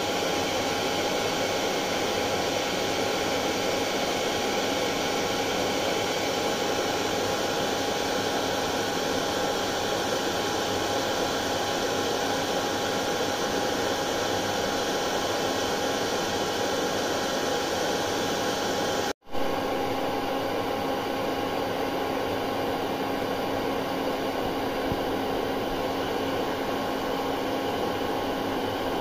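Hair dryer running steadily: a constant rushing blow of air with a thin motor whine. About 19 seconds in, the sound drops out for an instant and then carries on, with its tone slightly changed.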